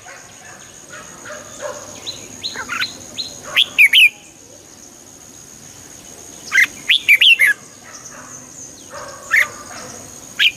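Red-whiskered bulbul singing in short bursts of quick, falling whistled notes, with three main phrases a few seconds apart.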